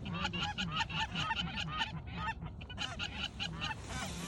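A flock of geese calling: many short honks overlapping in a dense, continuous chorus.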